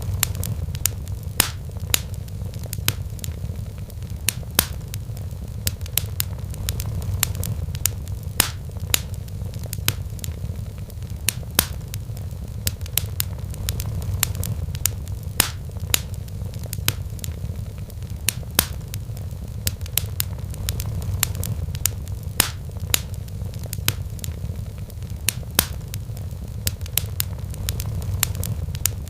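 Wood fire crackling in a fireplace, with frequent sharp pops and snaps over a steady low rumble that swells gently every few seconds.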